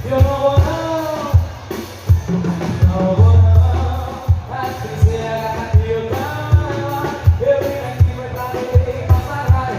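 Live sertanejo band music: a melody over a steady drum-kit beat.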